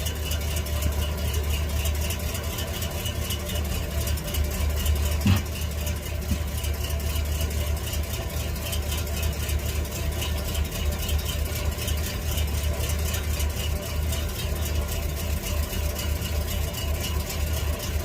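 1948 Ford F5 bus engine idling steadily, running on the fuel left in the carburettor float bowl while the new fuel pump is not yet pulling from the tank. A single short knock about five seconds in.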